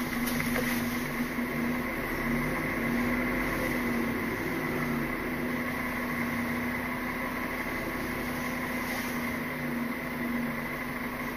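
Articulated lorry's diesel engine idling steadily, heard inside the cab as an even hum.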